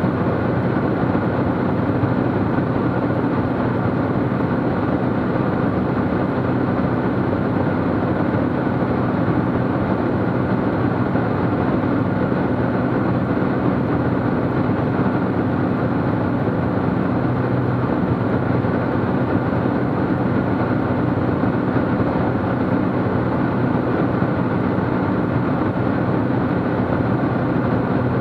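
Steady drone of a Cessna T210 Centurion's turbocharged six-cylinder piston engine and propeller in flight, holding an even pitch and level throughout.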